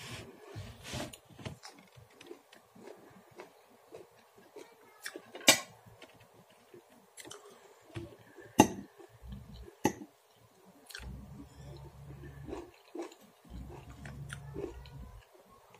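Close-up chewing of a mouthful of fresh parsley, soft wet mouth sounds, broken by a few sharp clicks about five and eight seconds in. A low rumble comes twice near the end.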